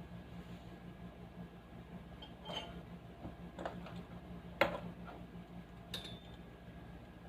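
Loudspeaker giving off a steady low electrical hum, the fault being worked on, with a few short clicks and taps over it, the sharpest a little past the middle.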